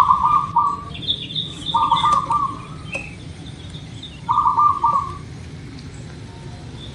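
Zebra dove (perkutut) cooing: three short, rapidly stuttering phrases about a second long, spaced a couple of seconds apart. A small bird chirps faintly higher up during the first two phrases.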